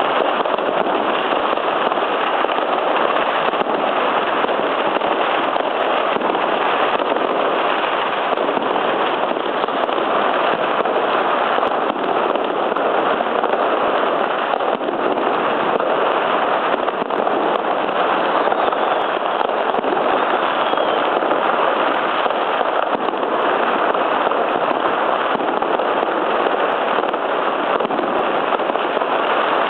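Many fireworks going off at once, their pops and bangs merging into a continuous dense crackle with no pause.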